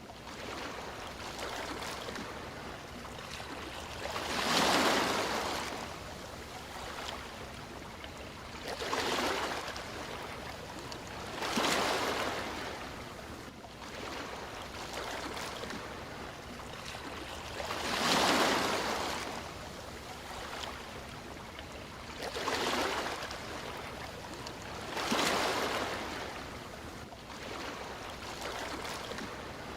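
Sea waves washing onto a shore, with a swell of surf every few seconds, six in all, over a steady hiss of water.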